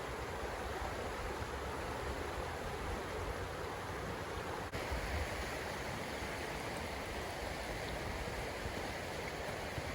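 Forest stream running, a steady rush of water with low wind rumble on the microphone; the sound shifts slightly just under halfway through.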